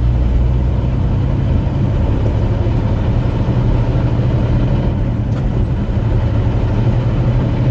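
Heavily loaded truck's diesel engine pulling steadily, a constant low drone with road noise, heard from inside the cab.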